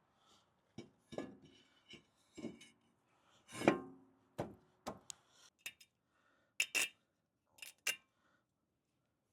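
Irregular metal clanks and clinks of heavy steel truck front-end parts being handled and fitted, some strikes ringing briefly. The loudest clank comes just over a third of the way through, with sharper clicks later on.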